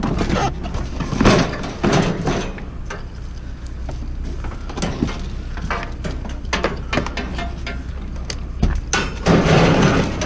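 Scrap being handled and loaded: irregular knocks, clunks and rattles over a steady low hum.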